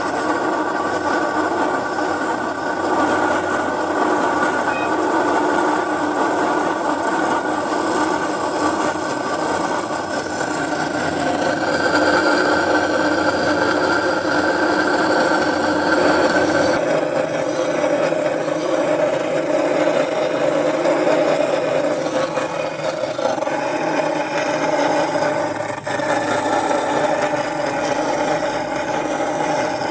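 A motor or engine running steadily, a mechanical hum with several fixed pitches that shifts about twelve seconds in and again around seventeen seconds.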